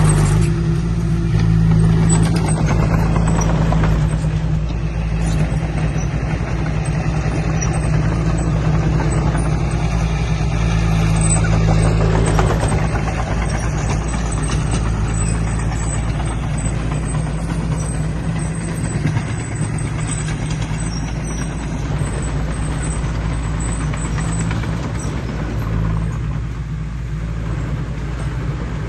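Diesel engine of heavy earthmoving equipment running steadily under load, a low even drone with clatter and hiss over it, easing slightly over the last few seconds.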